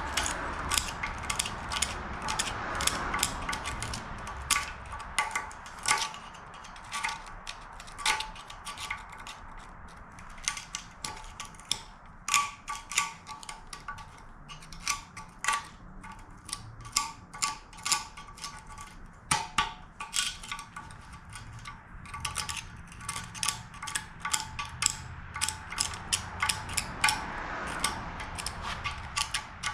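A steel hand tool picking and scraping at the excavator bucket's steel, prying debris out from behind the wear bar: irregular sharp metallic clicks and scrapes, sometimes several a second, with short pauses between bouts.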